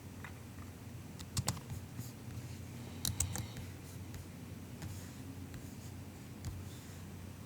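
MacBook keyboard: a few scattered keystrokes, a short cluster about a second and a half in and another about three seconds in, then single taps, over a faint steady low hum.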